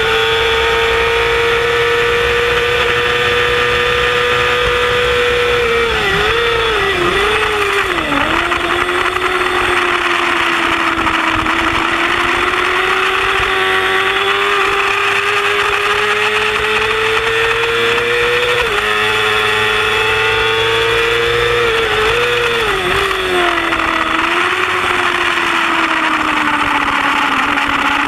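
Yamaha R6 inline-four sportbike engine screaming at high revs under racing throttle, over heavy wind noise. The pitch climbs slowly on the straights, then drops and wobbles with quick throttle blips as the rider shifts down for corners, about six seconds in and again around twenty seconds in.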